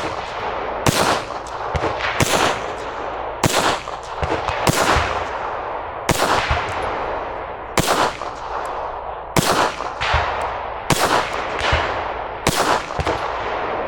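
Gunshots fired at a slow, steady pace, about ten of them, roughly one every second and a half, each followed by a long echoing tail.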